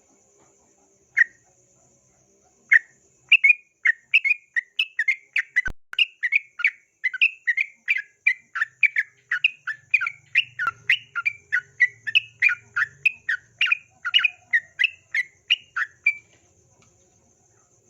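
Yellow-vented bulbul singing: two lone notes, then a long fast run of short liquid notes, about three a second and alternating higher and lower, that stops about 16 seconds in.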